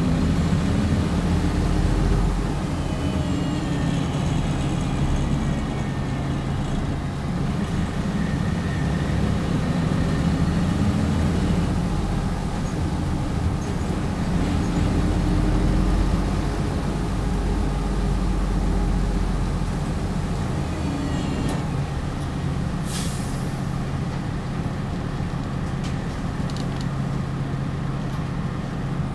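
Hino Blue Ribbon HIMR II hybrid city bus running, heard on board: a steady low engine drone with faint whines that shift in pitch early on. About three-quarters of the way through comes a short hiss of released air, typical of the bus's air brakes.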